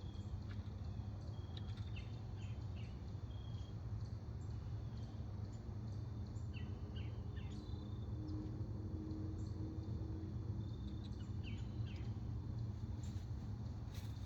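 Outdoor ambience: short bird chirps come and go over a steady low rumble, with a few sharp clicks near the end.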